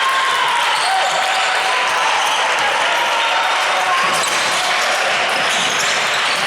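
Basketball game in a gym: a basketball bouncing on the court under a steady, dense wash of players' and spectators' voices.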